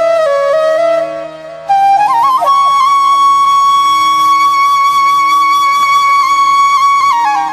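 Flute music over a steady low drone: a short phrase of notes, then one long held note from about two seconds in that breaks into a falling run near the end.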